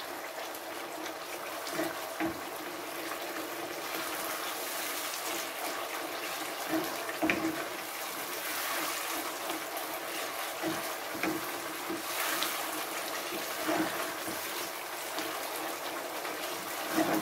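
Onion and tomato gravy sizzling and bubbling in hot oil in a pan as it is fried down, with a wooden spatula scraping and tapping against the pan now and then.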